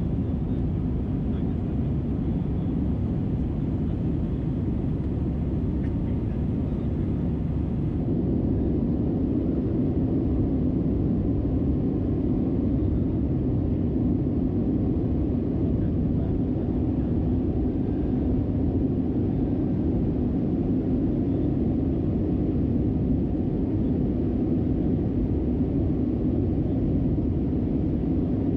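Steady engine and airflow rumble heard inside the cabin of an Airbus A319-112 with CFM56-5B engines. It gets slightly louder about eight seconds in.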